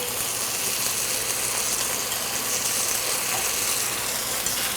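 Chopped onions frying in hot oil in a pan, a steady sizzle.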